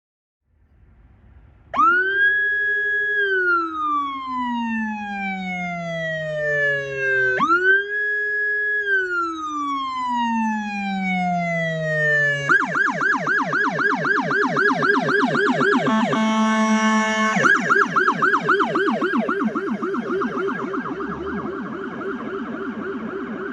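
American police car electronic siren: two slow wail cycles, each rising fast, holding, then falling slowly, then switching to a rapid yelp. The yelp breaks for a second or two of a steady blaring horn tone before resuming, and cuts off at the end.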